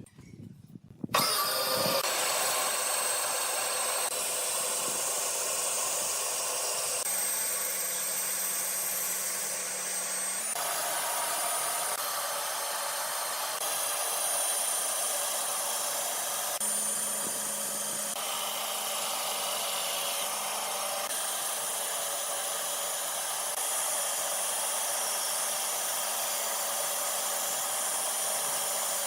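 Electric power tool running steadily on wood: a high whine over a loud hiss. It starts about a second in and shifts abruptly in pitch and tone several times.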